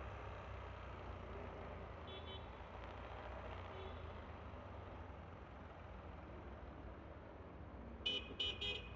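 Steady low vehicle rumble, then, near the end, three quick high-pitched horn toots.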